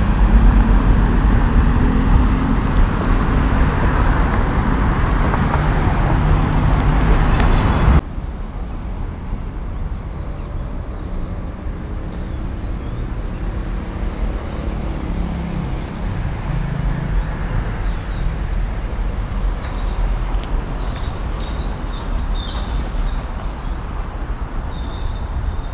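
Street traffic: motor vehicle engines running with road noise, loud at first, then cutting off suddenly about eight seconds in to quieter traffic going by.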